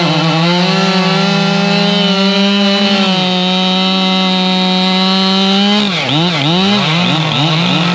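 Husqvarna chainsaw two-stroke engine running at high, nearly steady revs. About six seconds in, the revs drop and pick up again several times in quick succession, as the throttle is let off and blipped.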